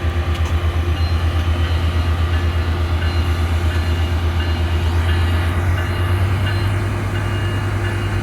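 Metrolink diesel locomotive engine running with a fast, steady throb as the train gets ready to pull out of the station, its pitch stepping up slightly a little past halfway.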